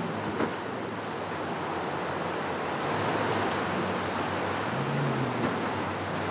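Rushing rapids water with the steady drone of a jet-propelled river barge's twin truck engines as it climbs a minor rapid.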